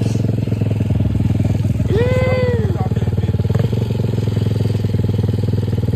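Dirt bike engine running at idle with a rapid, even pulse. About two seconds in, a voice gives one long call over it.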